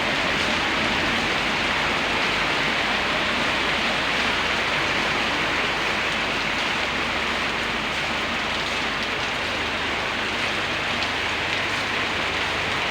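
Steady rain falling and pattering on surfaces, a constant even hiss with no letup.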